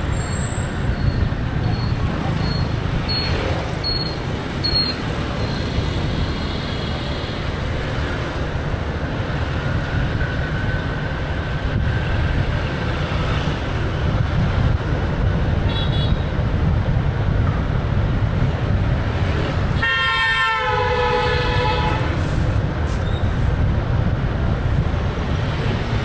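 Motorbike riding through city traffic: a steady low engine and road rumble, with a loud vehicle horn blaring for about a second and a half about two-thirds of the way through, and a few short, high horn beeps from other traffic.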